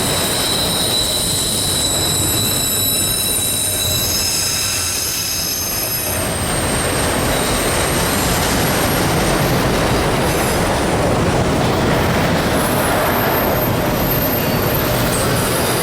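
Freight train rolling past: wheels squealing in several high, steady tones for about the first six seconds, then a steady rumble and rush of wheels on the rails.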